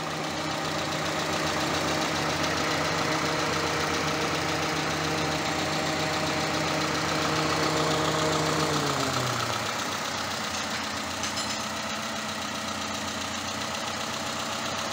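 Peugeot 206 petrol engine, newly installed as a replacement, idling steadily in its engine bay. A hum in its running sound drops lower in pitch about nine seconds in and then holds steady.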